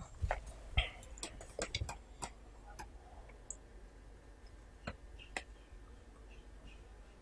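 Scattered sharp clicks and taps from food and dishes being handled for eating: a quick run of them in the first two seconds, then a couple of single taps about five seconds in.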